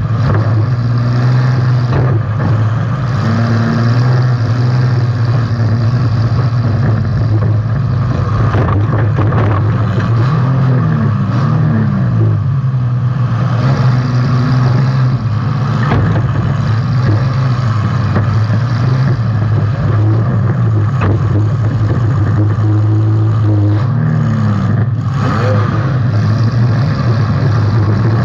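Demolition derby car's engine running hard, heard from on board. It revs up and down about ten seconds in and again near the end, with occasional sharp knocks and clatter from hits.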